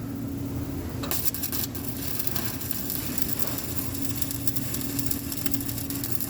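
Electric arc welding: the arc strikes about a second in and then crackles and sizzles steadily. A low steady hum runs underneath.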